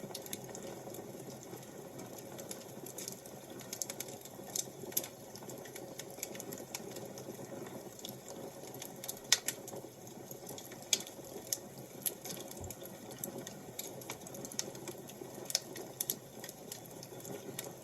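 Wood fire crackling: irregular sharp pops and snaps over a steady low rushing hiss, one of the loudest pops about nine seconds in.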